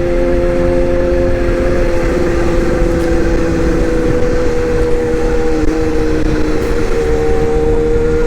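A machine running steadily, a droning hum whose pitch drifts slightly.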